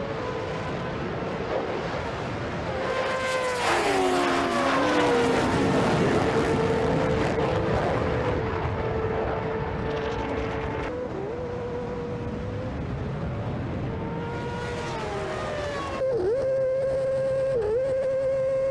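High-revving racing engines, running at a steady high pitch with stretches where the pitch falls away as a vehicle passes, cut between several shots.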